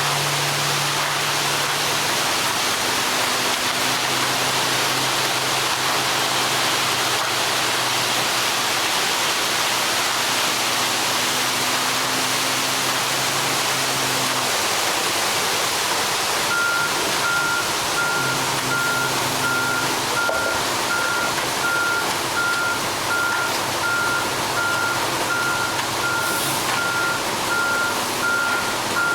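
Heavy diesel truck engine running, its note shifting in pitch now and then; a bit over halfway through, a backup alarm starts beeping steadily, a little over once a second, as the truck reverses.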